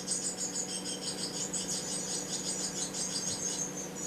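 Blue tit nestlings begging: a fast, continuous stream of thin, high-pitched calls, over a steady low hum.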